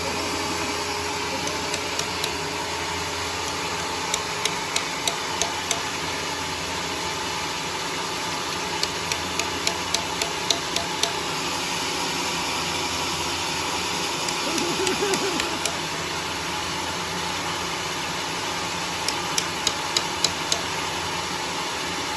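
Engine of a homemade sawmill running steadily, with three bursts of rapid sharp knocks, about five or six strokes each, coming a few seconds apart.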